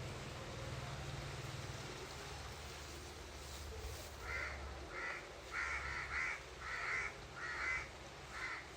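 A bird gives a series of about seven short, harsh, caw-like calls in the second half, over a low steady hum.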